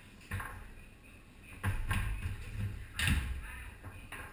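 Play on a Tornado foosball table: a run of sharp knocks and clacks as the ball is struck by the rod figures and hits the table, about five or six hits with the loudest about three seconds in.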